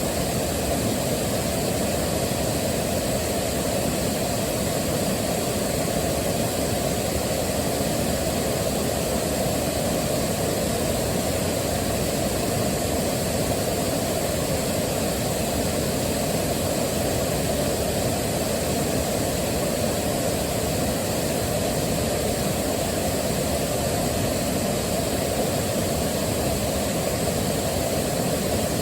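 Waterfall: a steady, unchanging rush of falling water, heaviest in the low range.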